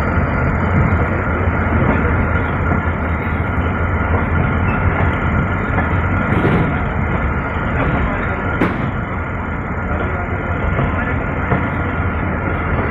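Passenger train rolling along the track, heard from an open coach window: a steady rumble of wheels on rails, with one sharp click about two-thirds of the way through.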